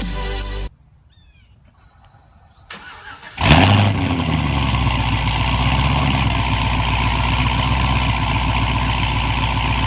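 Background music stops, and after a brief quiet the starter cranks for a moment. About three and a half seconds in, the Lingenfelter-tuned supercharged 6.2-litre V8 of a 2011 Cadillac CTS-V catches with a loud flare, the loudest moment, then settles into a steady cold-start idle.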